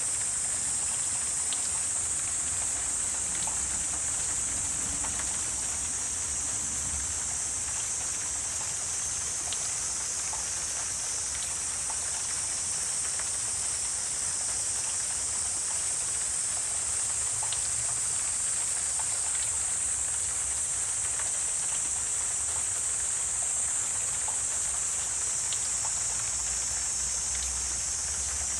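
Wetland nature ambience: a steady high-pitched hiss with scattered faint ticks and a low rumble underneath.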